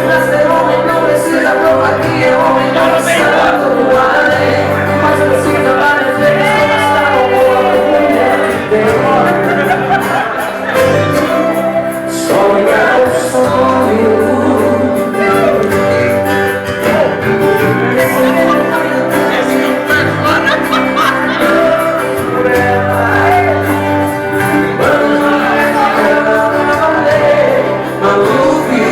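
Live band playing a song, with a man singing over a steady bass line.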